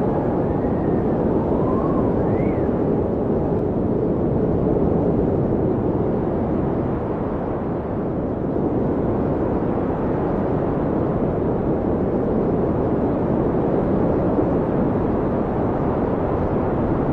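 Howling blizzard wind blowing steadily and loudly, with a few short whistling tones gliding up and down in pitch in the first three seconds.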